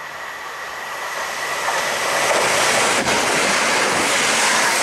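Class 170 Turbostar diesel multiple unit approaching and passing close by: the rush of wheel and rail noise builds over the first two seconds, then holds loud and steady.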